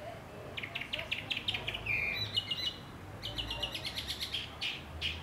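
A bird chirping: rapid runs of short high chirps, a brief whistled phrase about two seconds in, then slower, evenly spaced chirps near the end.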